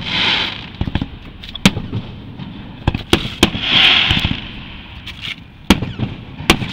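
Aerial fireworks display: several sharp bangs of shells bursting overhead, irregularly spaced, with surges of hissing noise between them, the loudest about four seconds in.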